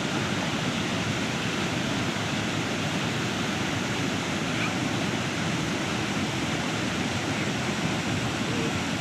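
Floodwater pouring over a road bridge: a loud, steady rush of fast-flowing water that does not let up.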